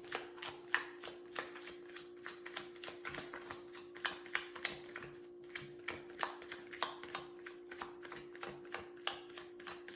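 Tarot cards being shuffled by hand: a run of irregular soft clicks and flicks, several a second, over a faint steady hum.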